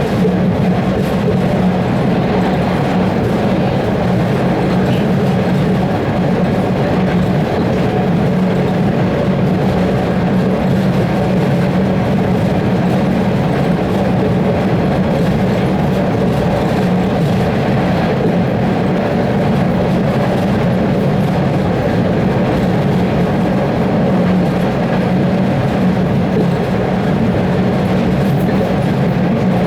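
MBTA Red Line subway train heard from inside the car as it runs along the track: a steady rumble of wheels on rail with a constant low hum.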